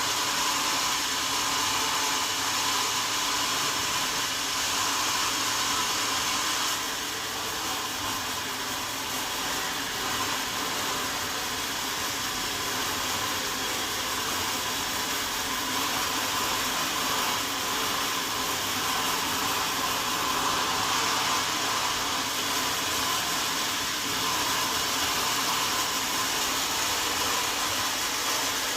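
Sawmill saw running steadily with a continuous mechanical whine, dipping slightly in level about seven seconds in.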